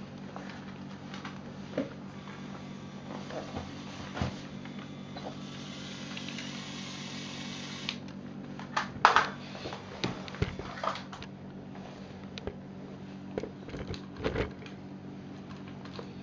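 Irregular plastic clicks and knocks from a Lego Technic model being handled, with the loudest cluster about nine seconds in. A hiss lasts for a couple of seconds in the middle, over a steady low hum.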